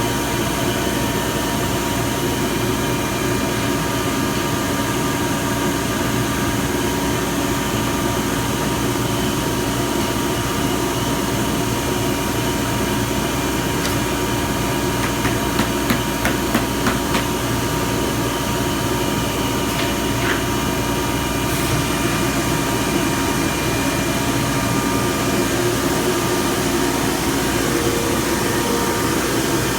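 Weeke BP12 CNC router running steadily, a constant machine drone with several held tones, broken about halfway through by a quick run of about six sharp knocks.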